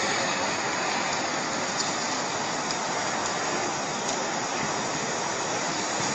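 A steady rushing, rumbling noise with no distinct tones, recorded as one of the 'strange sounds in the sky'.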